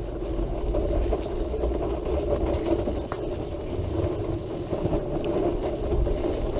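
Electric wheelchair's motors humming steadily as it drives along a paved path, with the low rumble of its wheels rolling over the surface.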